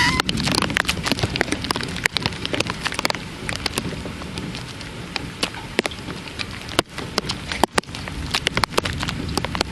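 Rain falling during a thunderstorm, with a steady hiss and many sharp ticks of drops striking close by. A brief chirping call is heard right at the start.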